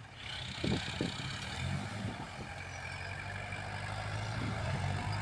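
Kubota L47 tractor loader's diesel engine running steadily as it works soil, its hum growing stronger about a second and a half in.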